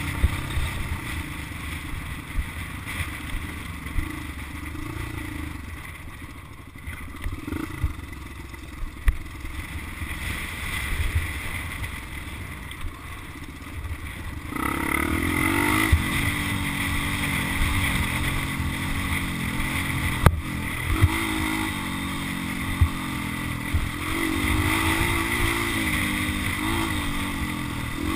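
Dirt bike engine running, fairly low for the first half, then opening up louder about halfway through, its pitch rising and falling with the throttle. There are scattered knocks and clatter, and wind rumbles on the microphone.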